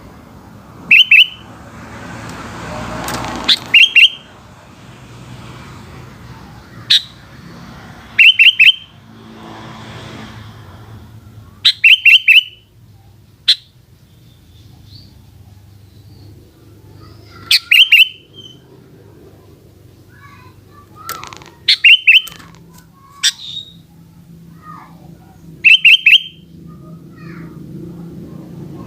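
Sooty-headed bulbul (kutilang) singing: short, loud phrases of three or four quick falling notes, repeated every few seconds. A low background noise swells and fades a few seconds in.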